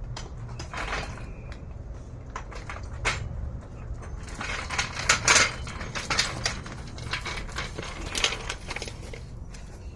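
Metal tools clinking and clanking in an engine bay: scattered sharp knocks and rattles, busiest about halfway through and again near the end, over a steady low hum.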